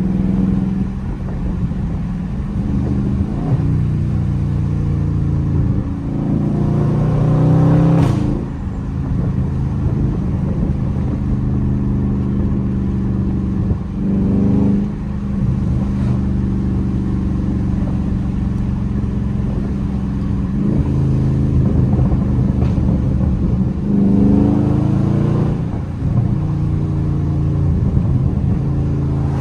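Dodge Scat Pack's 392 HEMI V8, with its mid mufflers deleted, under way with a deep exhaust note. It accelerates several times, the pitch climbing and then dropping back, between steadier stretches of cruising.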